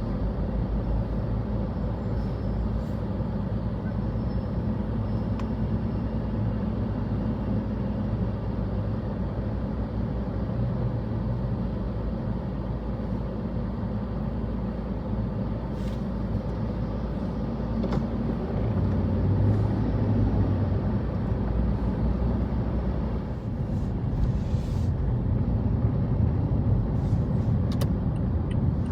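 Street traffic: motor vehicle engines running and passing steadily, swelling briefly partway through, with a few short clicks.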